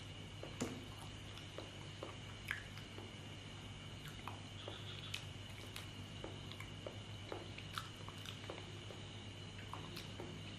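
Close-miked mouth sounds of someone chewing soft ripe banana: irregular soft wet smacks and clicks, a few sharper than the rest, over a steady low hum and a faint high whine.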